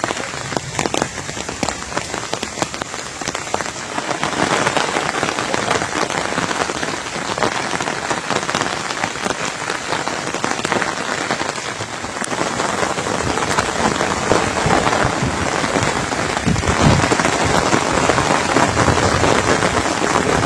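Steady rain falling, a dense patter of drops striking a surface, slightly heavier from about four seconds in.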